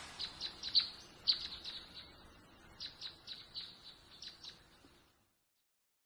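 Small birds chirping: a run of short, quick chirps, several a second, in two spells, dying away after about four and a half seconds.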